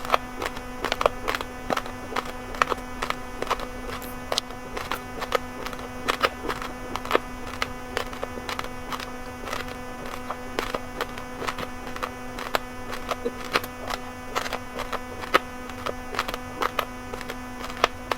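A person chewing raw, uncooked red and white rice close to the microphone: rapid, irregular crisp cracks of hard grains breaking, over a steady electrical hum.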